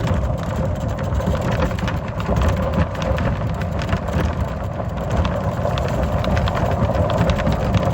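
Vehicle engine running steadily while its tyres crunch over a gravel driveway.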